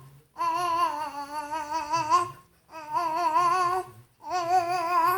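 A voice making long, ghostly hummed notes: three held tones, each with a slow wobble in pitch, broken by short pauses.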